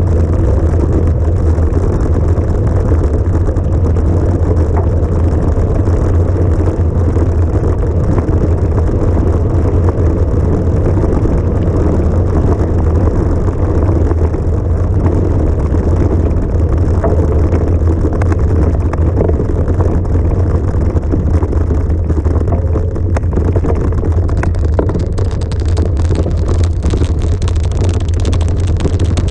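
Motor vehicle engine running steadily, a loud unbroken low drone.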